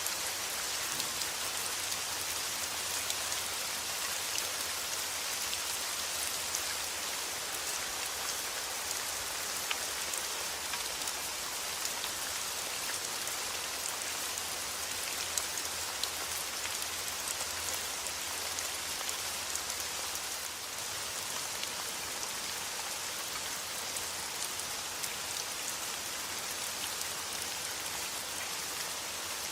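Steady rain falling on a surface: an even hiss with countless individual drops ticking through it.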